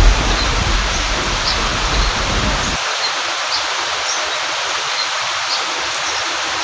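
Steady hiss of heavy rain, with a low thunder rumble that cuts off abruptly about three seconds in, leaving the rain alone. Faint short chirps sound now and then over the rain.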